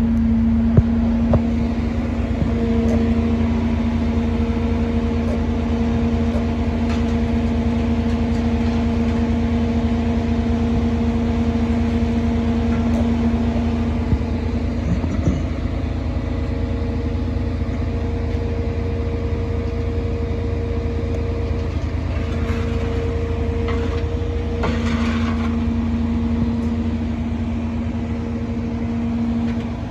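Truck engine running steadily to drive the hydraulics of a truck-mounted crane as it is unfolded, with a steady whine over the rumble that drops away midway and returns near the end. A few short knocks and a brief hiss break in along the way.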